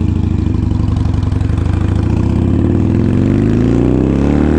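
Harley-Davidson Sportster Iron 883 V-twin engine under way, running steadily and then rising in pitch over the last couple of seconds as it accelerates, with the pitch dropping at a gear change at the very end.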